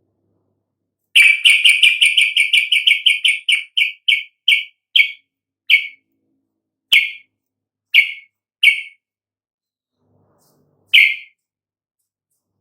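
Yellow-vented bulbul (trucukan) calling: a fast run of short, sharp chirps that slows over a few seconds into single spaced notes, with a last lone note near the end.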